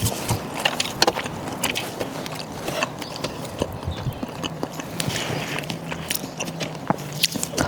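Close-miked eating sounds: chewing, with many sharp, irregular clicks of utensils.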